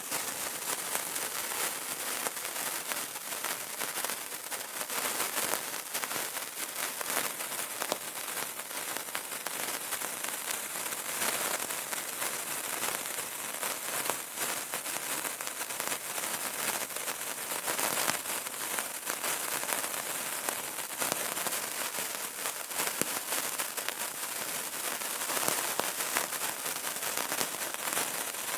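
Burning candle crackling: a dense, steady stream of small pops and snaps.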